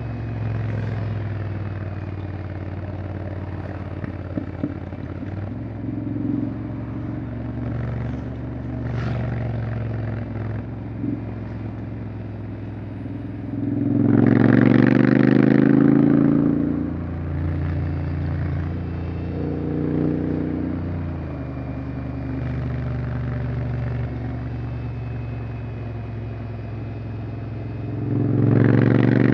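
Honda X-ADV 750's parallel-twin engine running steadily on the move, then opening up twice with a louder, rising note: once about halfway through and again near the end.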